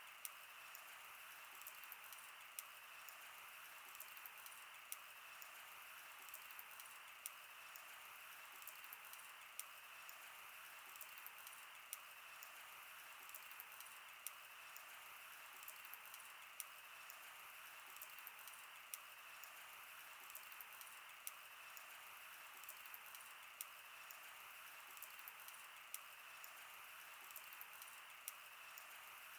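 Wood campfire burning: a quiet, steady hiss with frequent small crackles and pops at irregular moments.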